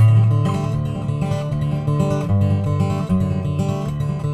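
Acoustic guitar played without singing, steady strummed and picked chords.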